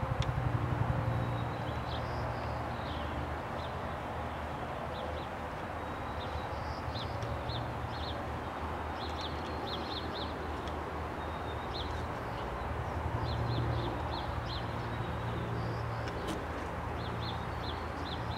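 Small birds chirping repeatedly in short high notes over a steady low background rumble.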